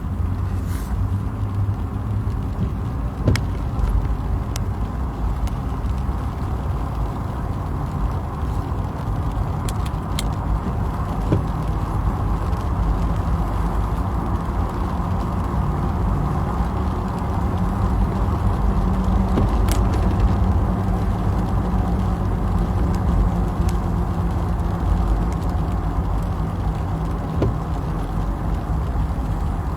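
A car running, heard from inside: a steady low engine hum and rumble, with a few faint clicks.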